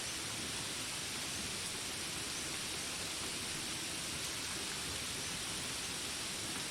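Steady rain falling, an even hiss without breaks or distinct calls.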